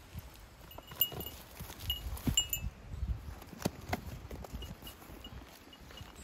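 Small metal bell jingling in short, irregular rings over soft footstep thuds, loudest in the first half and fainter later.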